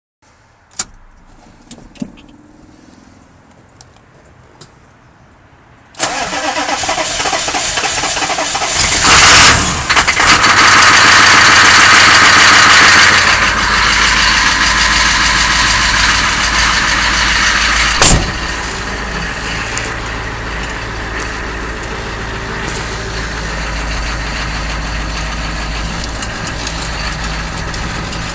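A 6.2-litre V8 engine is cold-started after a few clicks. It fires about six seconds in and runs loud and fast for several seconds, then settles to a steady, lower idle with a deep rumble. There is a sharp click partway through the idle.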